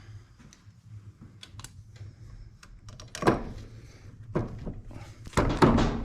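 Metal engine parts clunking and scraping as the cylinder and head of a Kawasaki KLX125 engine are handled and fitted during a top-end rebuild. A few separate knocks, the loudest about three seconds in, and a longer clatter near the end.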